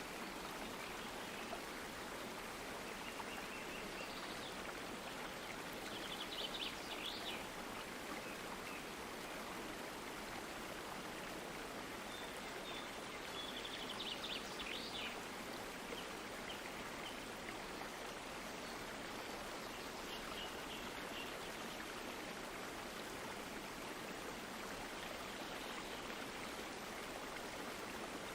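Stream water running steadily, an even rushing hiss. A few short high-pitched trills rise above it at intervals, the loudest about a quarter and half of the way through.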